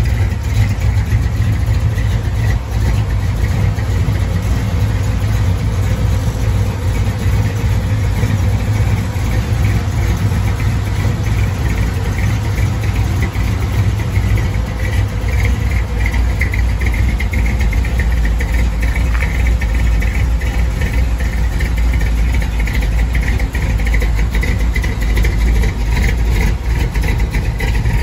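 A 1955 Chevrolet's engine idling steadily, a continuous deep rumble with no revving.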